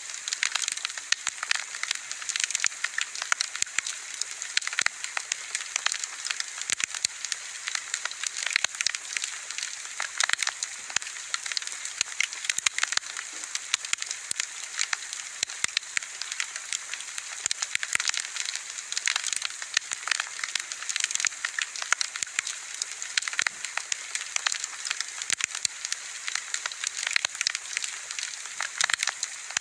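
Wood bonfire burning, with a steady hiss and constant dense crackling and popping of the burning wood.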